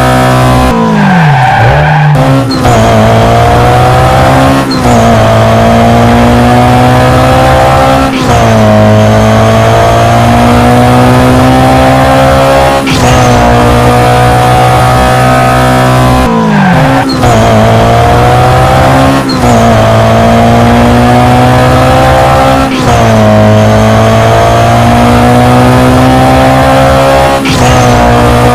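Drift car's engine running hard at high revs, its pitch climbing steadily and then dropping sharply about every two to five seconds as the throttle is lifted or the gear changes. Twice the revs fall away in a long downward sweep before picking up again.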